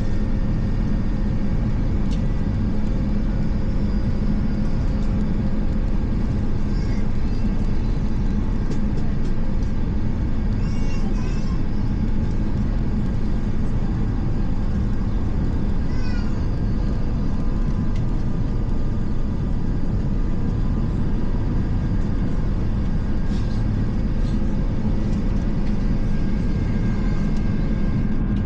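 Steady airliner cabin noise inside an Airbus A350: the rush of air and the drone of its Rolls-Royce Trent XWB engines, with a constant low hum. A few brief high squeaks sound over it about a third and halfway through.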